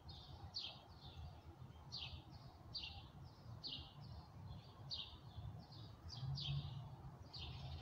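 Songbirds chirping, faint: a string of short chirps that drop in pitch, about two a second, over a low background rumble.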